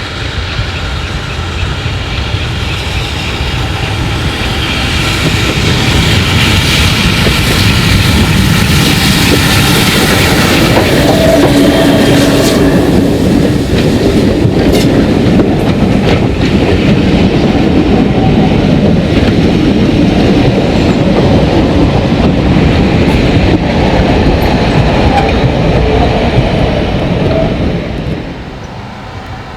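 A steam-hauled train passing close by. It grows louder over the first ten seconds, carries on loudly with the wheels clicking over the rail joints, and drops away shortly before the end.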